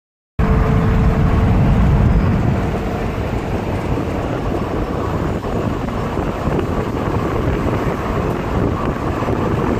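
Steady engine and road rumble inside a moving vehicle, with wind buffeting the microphone. It cuts in abruptly just after the start.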